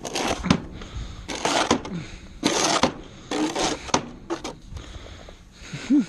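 Snow shovel scraping over pavement and pushing and throwing snow by hand: about five short scraping strokes in the first four seconds, then quieter.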